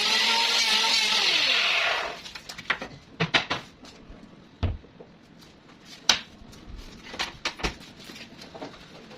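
Electric power tool running steadily, then switched off about two seconds in, its pitch falling as it winds down. Scattered knocks and clicks follow.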